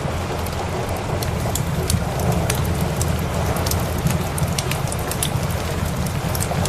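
Steady rain hiss mixed with a crackling wood fire: many sharp pops and snaps scattered throughout, over a constant low rumble.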